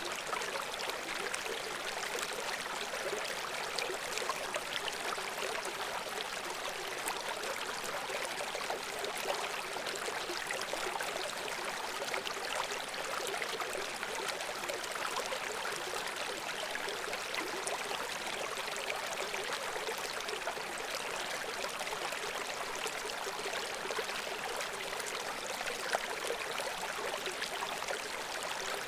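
Babbling brook: a steady rush of flowing water dotted with many small splashes and gurgles, light and hissy with no deep rumble.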